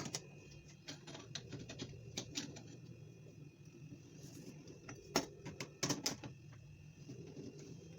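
Scattered light clicks and taps of hand work on a kitchen sink's fittings, with a few sharper knocks about five and six seconds in.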